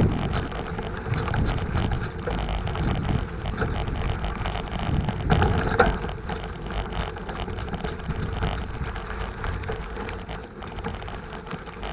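Bicycle rolling over rough dirt ground, its frame and parts rattling with many small knocks and a louder jolt a little past the middle, under wind noise on the microphone.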